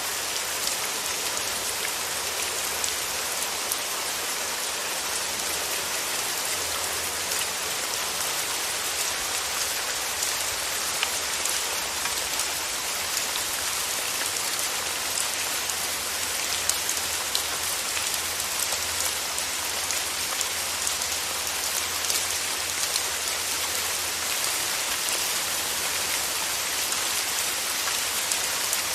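Steady rain falling, an even hiss with many individual drops ticking sharply on a surface close by.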